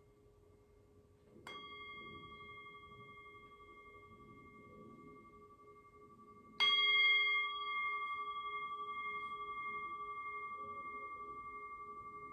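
Singing bowl struck twice, about five seconds apart, the second strike louder; each strike rings on with a steady, slowly fading tone.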